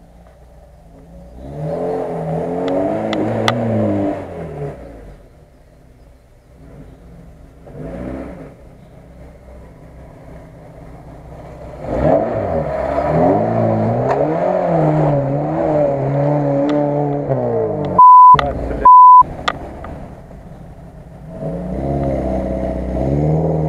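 Off-road 4x4 engines revving up and down in several bursts as the vehicles drive through deep mud ruts. A lifted Lada Niva is loudest in the middle, and a Chevrolet Niva approaches near the end. Two short, loud beep tones cut in about three quarters of the way through.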